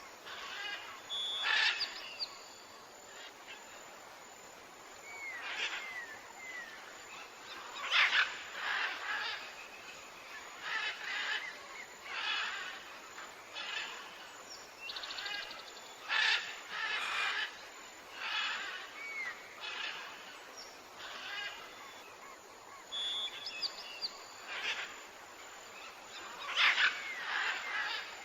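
Repeated animal calls, a short call every three to four seconds, with small chirps in between.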